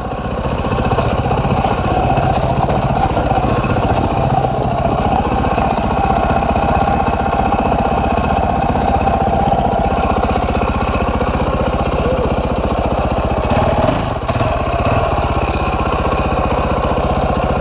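Dirt bike engine running loud and steady at an even speed.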